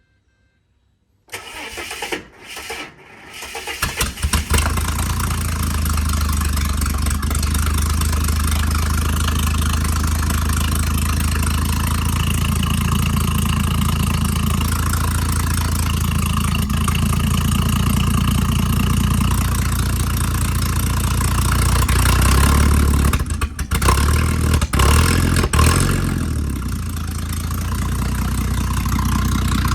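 Ford AU Falcon's 4.0-litre inline-six cranking unevenly for about three seconds and catching after standing unused for a while, then idling steadily through its loud stock dual-tailpipe exhaust. The engine speed rises and dips a few times near the end.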